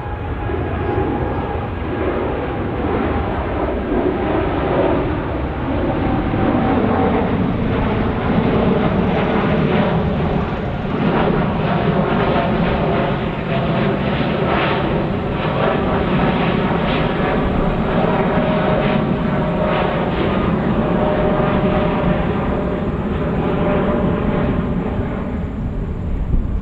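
Jet airliner departing under takeoff thrust: loud, steady engine noise with several held tones that drift slowly in pitch.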